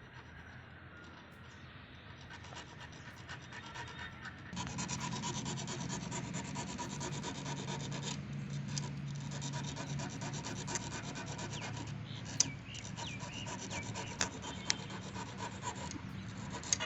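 Rapid, steady scraping on metal, rising about four seconds in, with a few sharp clicks near the end: hand work on the seized Royal Enfield diesel Bullet's piston, whose rings have jammed in their grooves.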